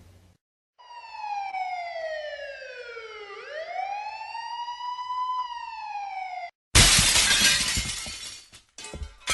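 A siren wails in one slow fall and rise of pitch, then cuts off abruptly. About seven seconds in comes a loud crash of breaking glass that fades out, then a shorter second crash near the end.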